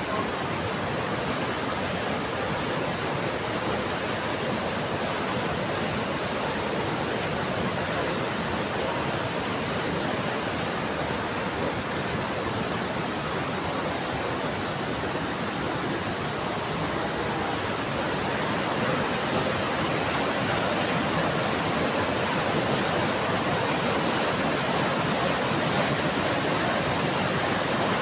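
Heavy rain falling as a steady, even hiss, growing a little louder about two-thirds of the way through.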